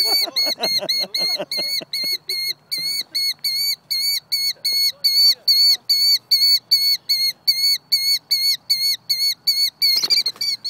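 A bird guarding its nest gives a rapid, steady series of short, sharp alarm calls, about four a second. Lower gliding cries overlap them in the first two seconds.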